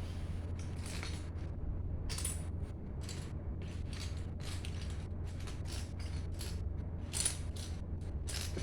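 Plastic Lego pieces clicking and rattling as they are handled: many short, irregular clicks over a steady low hum.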